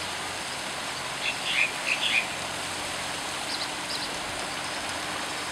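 A bird chirping over a steady outdoor hiss: a quick cluster of four short, high calls about a second in, then two fainter ones a little later.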